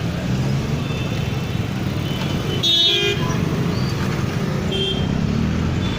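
Road traffic running steadily, with a vehicle horn sounding once, briefly, about three seconds in.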